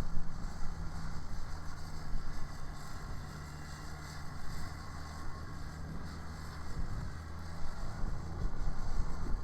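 Kubota BX sub-compact tractor's diesel engine running steadily, with its rear-mounted Kubota 2789 snowblower engaged.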